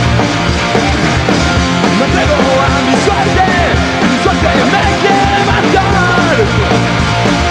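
Live punk rock band playing an instrumental passage with drums and distorted guitars, a high melody line bending in pitch over the top.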